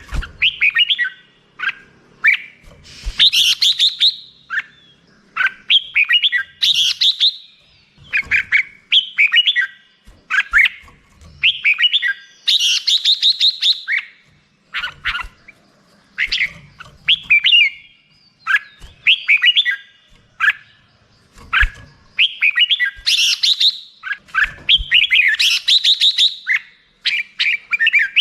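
Red-whiskered bulbul singing: short, quick, chirpy whistled phrases repeated every second or two with brief pauses between them.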